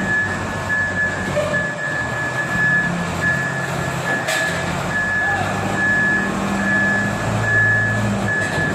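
Small wheel loader's turbocharged engine running, with its reversing alarm beeping at an even pace throughout.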